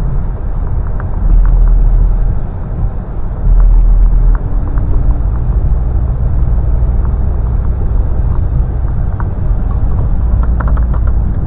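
Road and engine noise inside a moving car on a snow- and slush-covered road: a steady low rumble, with two louder low surges in the first few seconds.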